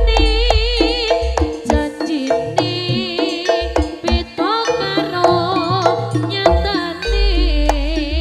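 Gending jaranan, East Javanese jaranan dance music played live: hand-drum strokes under a bending, wavering melody line, with deep low tones near the start and again about seven seconds in.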